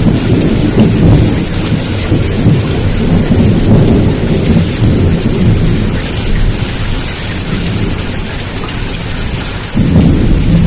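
Heavy downpour with thunder rumbling: a steady hiss of rain over a deep, rolling rumble. The rumble eases off in the middle, then a fresh roll of thunder comes in suddenly near the end.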